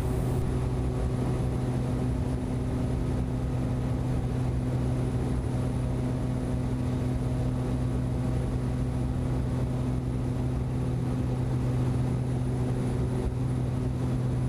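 Cessna Grand Caravan EX's Pratt & Whitney PT6A-140 turboprop and propeller running at climb power just after takeoff: a steady, even drone with a low hum.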